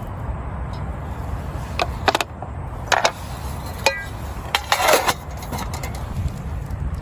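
Steady low rumble of heavy rain and wind, with scattered clicks and knocks and a longer rustling clatter about five seconds in.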